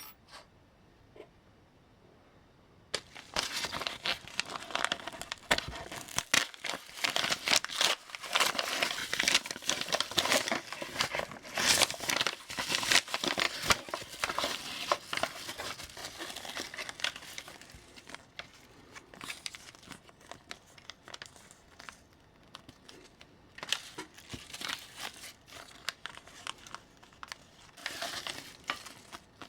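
Dense, irregular scratching and crinkling. It starts about three seconds in and runs until past the middle, then comes back in two short bursts near the end.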